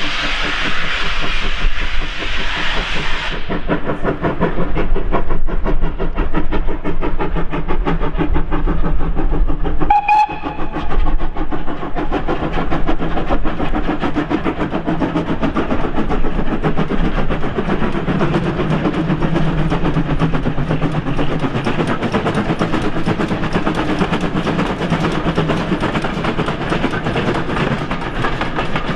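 A double-headed train behind two GWR pannier tank steam locomotives passing: a loud hiss that cuts off about three seconds in, then rapid clattering of wheels on rail to the end, with one short steam whistle about ten seconds in.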